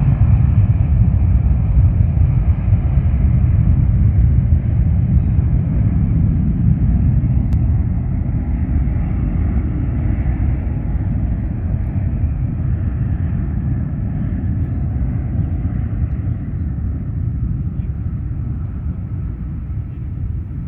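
Boeing 757 jet engines on takeoff: a loud, steady low rumble that slowly fades as the airliner climbs away.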